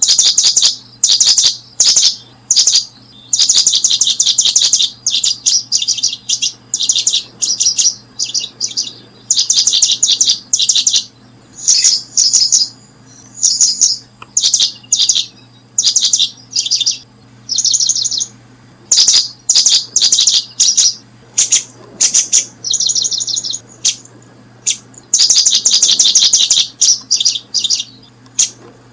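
Birds chirping: rapid high notes in dense bursts of one to two seconds, separated by short pauses, over a faint steady low hum.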